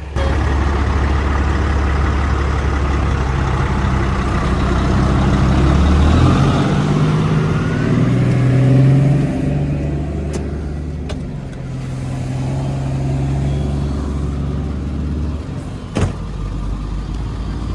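A vehicle engine running and accelerating away, its pitch stepping up around the middle, loudest at about nine seconds and then easing off. A single sharp click about sixteen seconds in.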